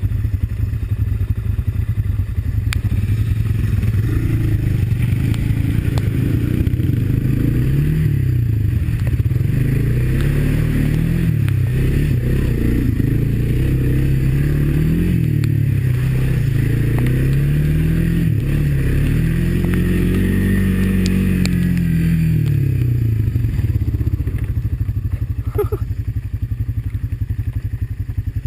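Honda ATV's single-cylinder four-stroke engine running under load on a muddy trail, the revs rising and falling every few seconds as the throttle is worked, with one longer, smoother rise and fall late on.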